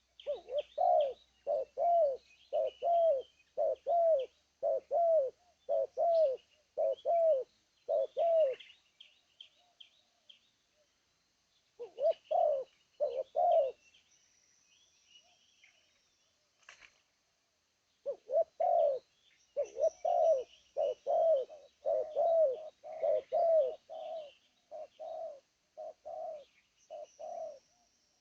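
Spotted dove (terkukur) cooing: a long series of evenly spaced coos, about one and a half a second. The series breaks off about a third of the way in, gives two more coos, and resumes steadily a few seconds later. Faint chirps of small birds sound higher above.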